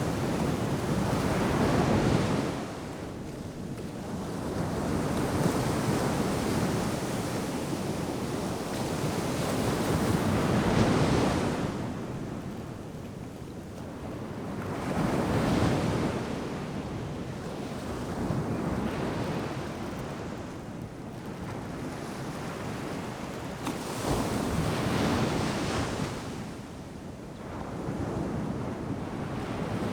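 Ocean surf breaking on the beach, swelling and falling away every four to six seconds, the loudest waves about two and eleven seconds in.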